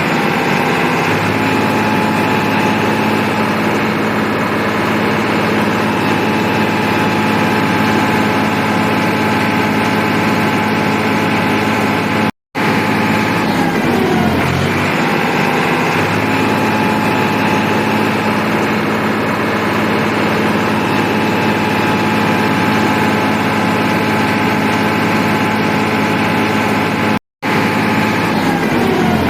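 Tractor engine running steadily at a constant pitch. The sound cuts out abruptly twice, about 12 and 27 seconds in, and resumes each time.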